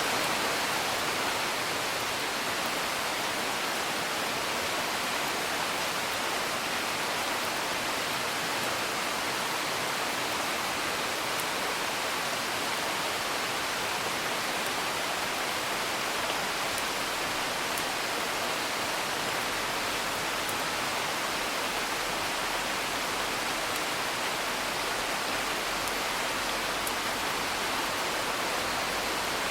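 Steady rain hiss, even and unchanging, with a few faint, sharp crackles from a wood fire scattered through it.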